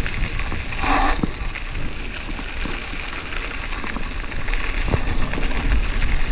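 A bicycle being ridden, with wind rumbling on the microphone and many small clicks and rattles from the bike. There is a brief louder noisy burst about a second in.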